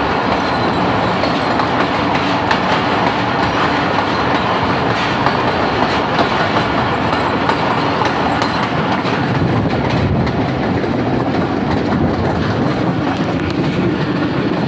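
Passenger train hauled by a diesel locomotive running at speed through a railway tunnel: a loud, steady rumble of wheels on rails with clickety-clack. The sound changes about two-thirds of the way through as the train comes out of the tunnel into the open.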